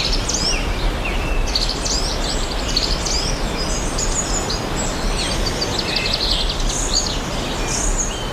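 Several birds chirping with many short, quick sweeping calls over a steady rushing background noise.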